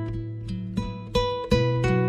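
Background music: acoustic guitar playing plucked and strummed notes in a steady rhythm.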